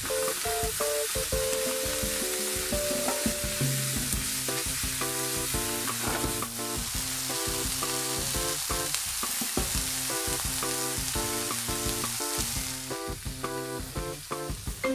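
Eggs, green peppers and tuna sizzling in a hot frying pan while being stirred with wooden chopsticks, with short clicks and taps against the pan. Light background music with a repeating melody plays underneath.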